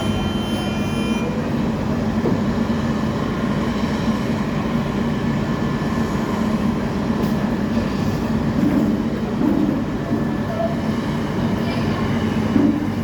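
Truck driving along a road: a steady engine drone and road rumble.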